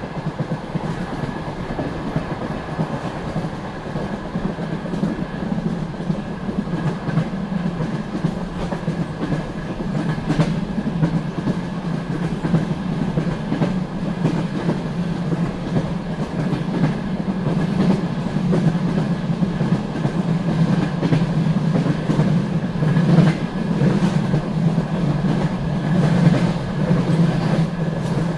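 Passenger train coach running along the line: a steady rumble of the wheels on the rails, with clicks now and then as the wheels pass rail joints.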